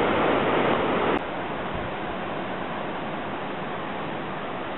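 Steady rushing outdoor noise with no distinct events. It is louder for about the first second, then drops abruptly to a lower, even hiss.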